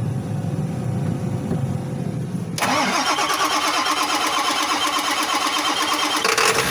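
An engine turning over on its starter, then catching about two and a half seconds in and running, helped by a shot of starting fluid sprayed into the air intake. Its note shifts again near the end.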